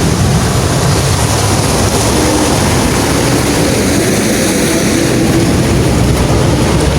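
Heavy engine running steadily, a loud even drone.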